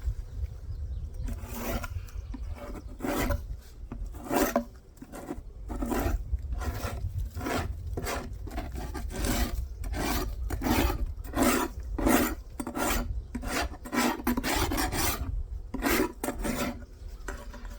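Beekeeping hive tool scraping a wooden hive part clean in repeated short strokes, about one to two a second.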